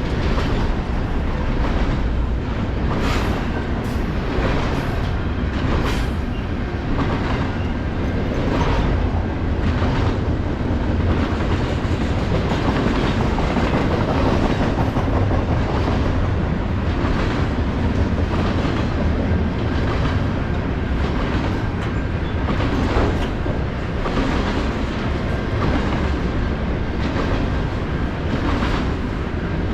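Freight train rolling past: a steady rumble of wheels on rail with repeated clacks as the wheels cross rail joints.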